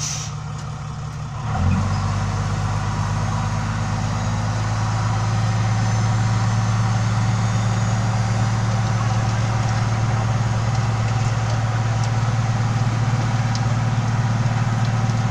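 Tractor engine running steadily, heard from the driver's seat; about a second and a half in it picks up and gets louder, then holds an even hum.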